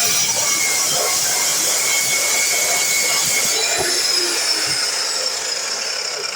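DeWalt miter saw running with its blade in a long continuous cut through metal stock: a steady high whine and hiss with shrill ringing tones, easing slightly near the end.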